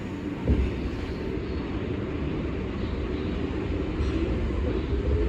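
New York City subway train running through a tunnel: a steady low rumble with a single knock about half a second in, growing slowly louder.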